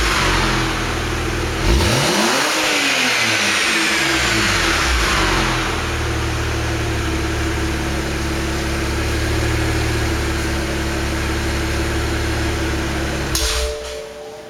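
2009 BMW 135i's twin-turbo inline-six, breathing through catless downpipes and the stock exhaust, with revs falling back, one quick blip about two seconds in, then settling into a steady idle. The engine sound cuts off about a second before the end and music begins.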